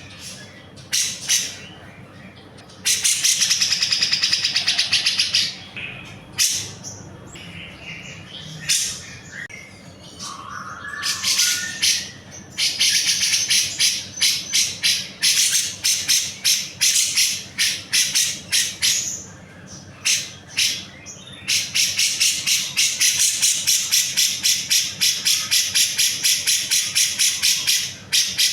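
Grey-cheeked bulbul (cucak jenggot) calling: harsh, high chattering notes in fast runs, with a brief buzzy rattle about three seconds in and a long steady series of about four notes a second through the last third.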